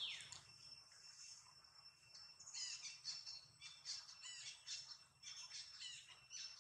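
Faint outdoor birdsong. It opens with one falling whistle, and from about two and a half seconds in comes a quick run of short high chirps, over a thin, steady, high whine.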